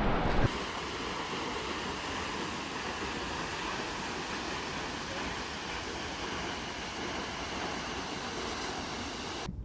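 Steady rush of flowing water, an even hiss-like roar with no breaks.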